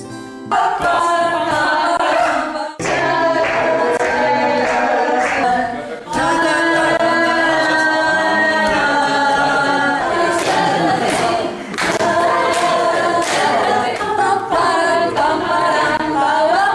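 Group of voices singing together unaccompanied, holding long notes.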